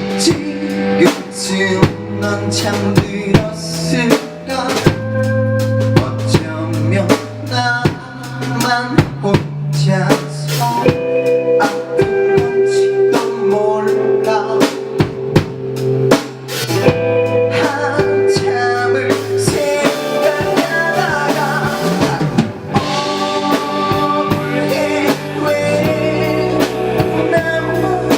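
Rock band playing live, drum kit with bass drum and snare hits under sustained guitar and bass notes, in a stretch without sung lyrics.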